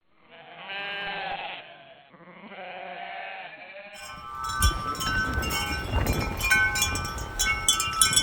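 Two sheep bleats, one after the other, then about four seconds in wind chimes ringing hard as the wind of a blizzard blows them, with gusting wind rumbling on the microphone.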